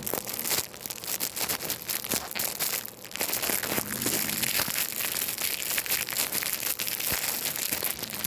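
Crinkling and crumpling of some material handled close to the microphone: a dense run of fine crackles, with a brief lull about three seconds in.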